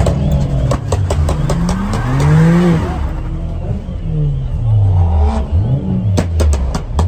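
A car engine revving up and dropping back twice, with quick strings of sharp exhaust pops and crackles, the densest run near the end.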